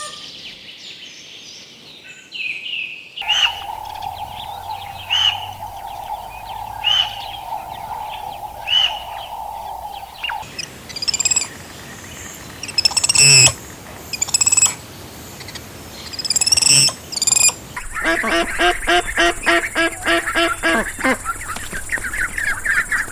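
Bird calls from several spliced clips. Short chirps come about every two seconds over a steady tone, then sharper scattered calls, then a run of rapid repeated calls near the end.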